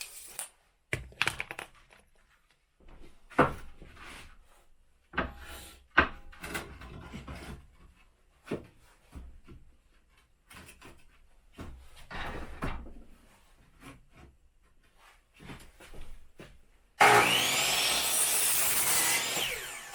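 Wood being worked with tools: a series of separate scraping strokes a second or two apart. Near the end comes about three seconds of louder continuous noise.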